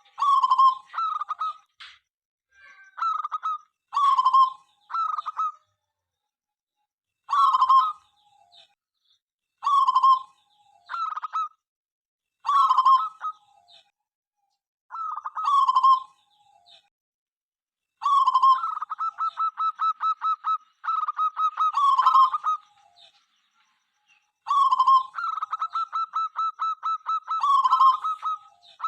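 Zebra dove (perkutut) cooing in short repeated phrases separated by brief pauses. Twice, in the second half, the song breaks into a longer run of rapid, evenly repeated notes.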